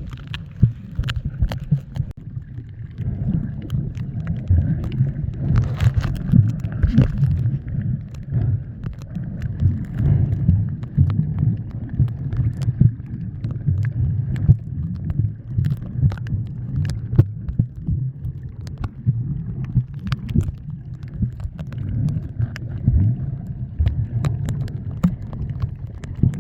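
Sea water sloshing and gurgling close to the microphone: a steady low churning rumble scattered with many small clicks and ticks.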